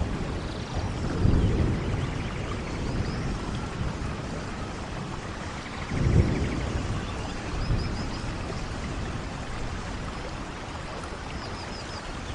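Steady rain falling, with low thunder rumbles swelling about a second in and again about six seconds in.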